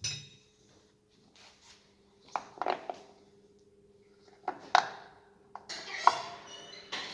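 Metal tools and parts clinking and knocking as they are handled and set down, a few separate sharp clinks, the first one ringing briefly, with some scraping near the end, over a faint steady hum.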